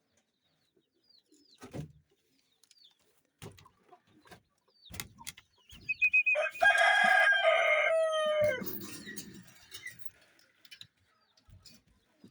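Kienyeji rooster crowing once, about six seconds in: one loud call of about two and a half seconds that drops in pitch at its end. Faint scattered knocks and chirps sound around it.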